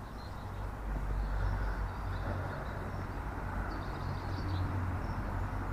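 Outdoor ambience: small birds chirping, busier about four seconds in, over a steady low rumble.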